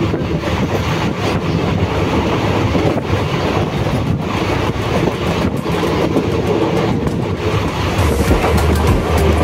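Passenger train running along the track, a steady rumble with the clatter of wheels over the rails, heard from inside the carriage.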